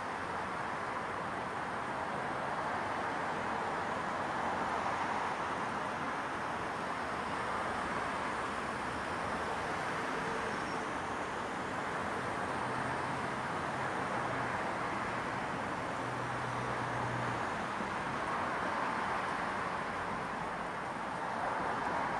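Residential street ambience at evening: a steady hiss of distant traffic that slowly swells and eases. A faint low hum comes in for a few seconds past the middle.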